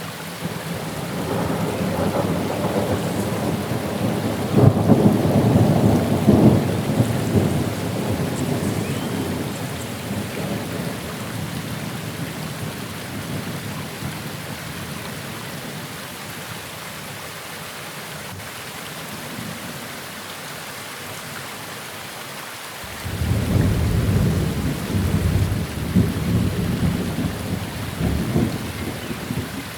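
Steady rain falling, with two long rolls of thunder. The first builds from about a second in, is loudest a few seconds later and dies away; the second breaks in sharply near the end and rumbles on.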